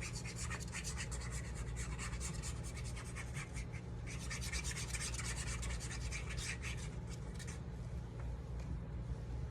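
Ink being rubbed through a stencil onto cardstock with an ink blending tool, in rapid scrubbing strokes that thin out near the end, over a steady low hum.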